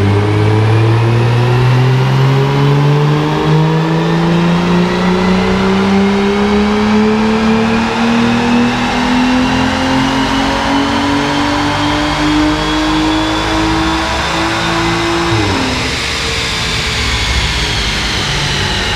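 Aston Martin DB9's V12 engine under full throttle on a rolling-road dyno, pulling steadily up through the revs in one long rising note: a dyno power run. About fifteen seconds in the throttle is shut and the pitch drops sharply, leaving the engine and rollers running down.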